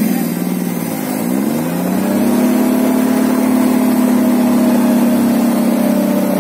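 Off-road 4x4's engine revving up about a second in and held at high revs, working under load with the vehicle bogged in thick mud.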